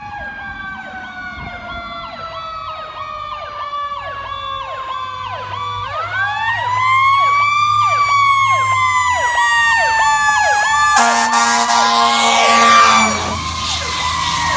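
Emergency vehicle sirens sounding together: a fast yelp, about two sweeps a second, over a slow wail that falls, winds up again about six seconds in and then slowly falls. From about eleven seconds in, a loud air horn blast sounds for about two seconds over the sirens.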